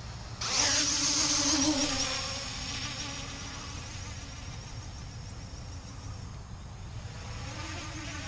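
CG035 quadcopter's motors and propellers spinning up suddenly for takeoff, with a loud buzzing whine. After a couple of seconds it eases to a steadier, quieter buzz as the drone flies.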